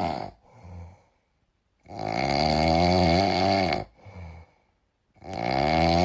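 Loud snoring: two long, wavering snores a few seconds apart, each followed by a short, quieter breath out.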